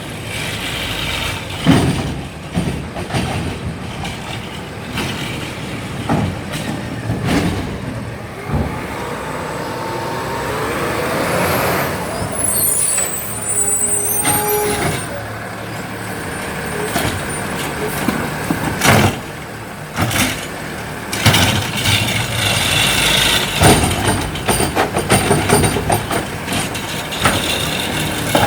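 Garbage truck at work: its diesel engine runs steadily and revs up about ten seconds in, and a high air-brake squeal follows. Sharp knocks and metal bangs come at intervals throughout.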